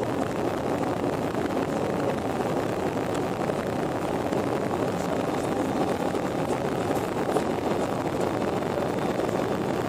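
Steady rushing noise of an aircraft in flight, even and unbroken throughout.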